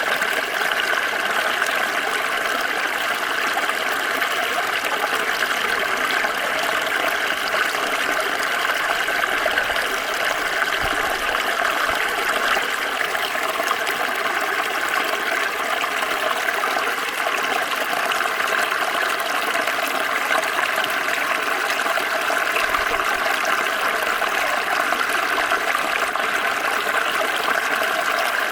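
Water flowing and splashing in a small stream, a steady rushing babble.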